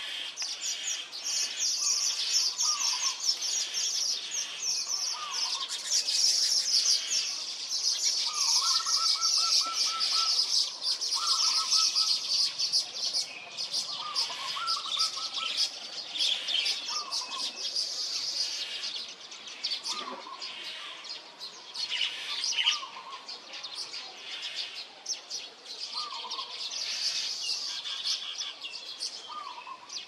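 Small birds chirping and chattering: a dense, rapid high-pitched twittering with short lower calls repeating every second or two.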